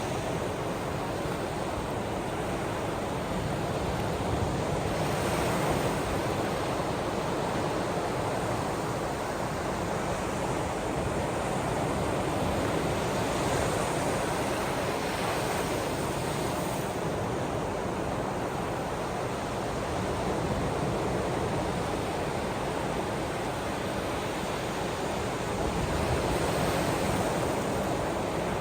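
Ocean waves washing in: a steady rush of surf that swells gently now and then, around five seconds in, in the middle and near the end.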